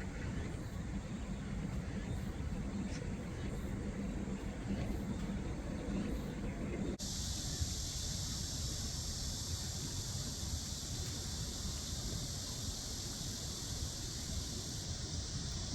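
Steady outdoor background noise: a low rumble with a faint hum, and after an abrupt cut about seven seconds in, a steady high hiss joins it.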